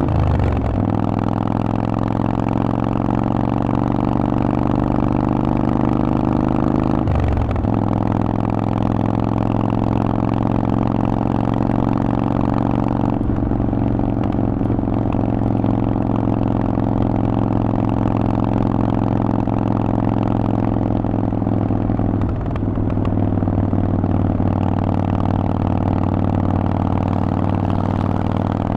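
Harley-Davidson Forty-Eight's air-cooled 1200 cc V-twin running through a Vance & Hines exhaust under way. The engine note drops about a second in, as on an upshift, then holds a steady cruising note with a few brief dips.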